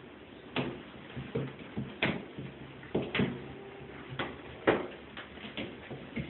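A cat's paws and body thumping and scrabbling on the floor as it chases its own tail: irregular knocks and bumps, about a dozen over several seconds, the loudest near the middle.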